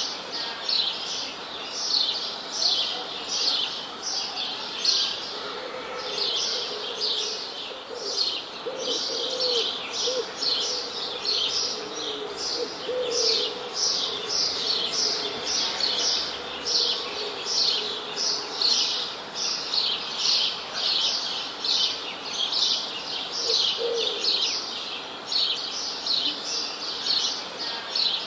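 Songbirds chirping continuously in quick, high repeated chirps, about two or three a second. A fainter, lower wavering call comes and goes in the middle and again briefly near the end.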